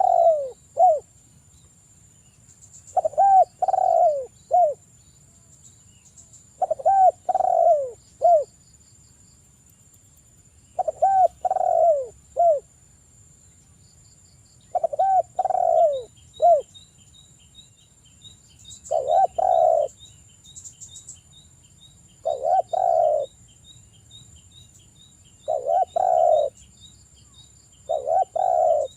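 Spotted dove (derkuku) cooing: a multi-note coo phrase repeated about every three to four seconds, eight times.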